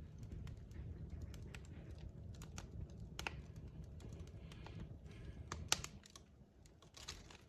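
Wood fire crackling: irregular sharp pops and snaps of burning logs over a low, steady rumble, with one loudest pop about six seconds in and a short hiss near the end.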